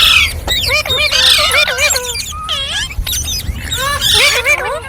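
Green parrots calling over one another: quick chattering calls that swoop up and down in pitch, mixed with harsh squawks.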